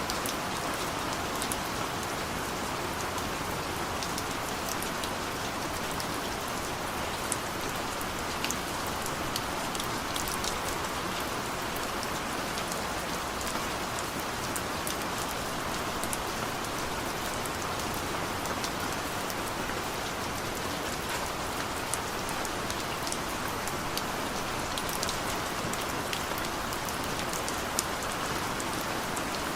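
Steady rain falling, an even hiss with many small drop ticks and pats scattered through it.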